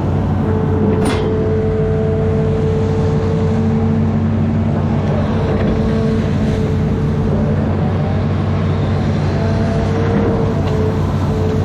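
Amphibious excavator's diesel engine running steadily, with a whining tone that drops out and comes back a few times and a short sharp click about a second in.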